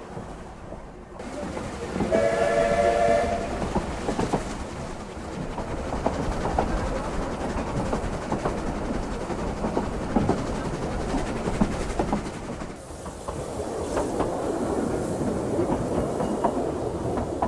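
Narrow-gauge steam train running, heard from on board. A short steam whistle blast sounds about two seconds in and lasts about a second. After it, a steady rumble with the wheels clicking over the rail joints.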